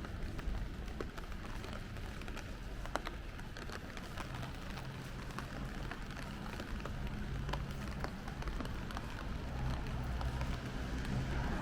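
Steady rain falling on the street, with many scattered drop ticks over a low traffic rumble. The rumble and overall level build near the end as a vehicle draws closer.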